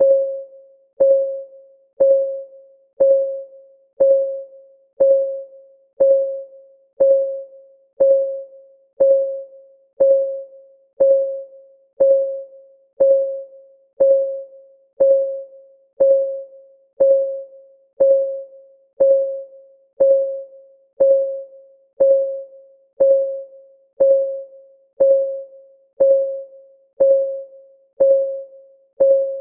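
Countdown timer's ticking-clock sound: one tick per second, each a short pitched ping that dies away quickly, in an unbroken, even rhythm.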